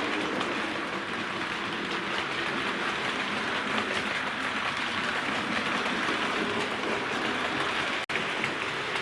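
Bachmann OO gauge A1 Pacific model locomotive running along the track, a steady rushing whirr of its motor and wheels on the rails, broken by a brief cut-out about eight seconds in.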